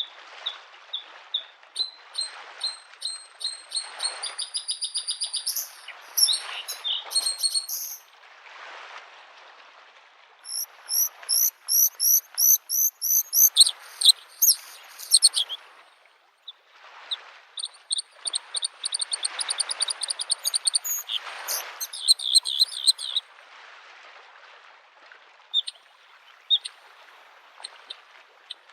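Bluethroat singing three bouts of fast, repeated ringing notes, over small lake waves lapping on the shore in soft, rhythmic washes.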